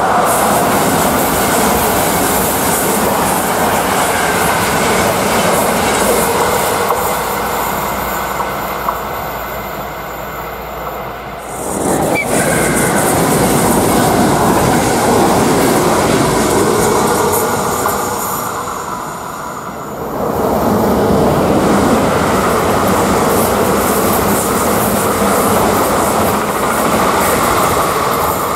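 Passenger trains running past at speed on electrified main-line track: an electric locomotive-hauled train, then passenger coaches with wheels clattering over the rails, then an electric multiple unit approaching. The rolling noise is loud and continuous, with abrupt changes about a third and two thirds of the way through where one pass gives way to the next.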